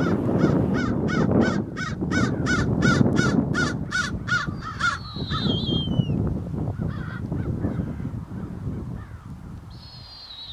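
A bird gives a rapid, even series of harsh calls, about three a second for some five seconds. It then gives two high whistles that fall in pitch, one about halfway through and one near the end, over a low wind rumble.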